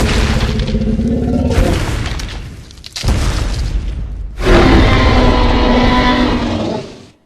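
Film sound-effect T. rex roars: a deep roar fading out, a sudden shorter one about three seconds in, then a loud final roar from about four and a half seconds in that cuts off near the end.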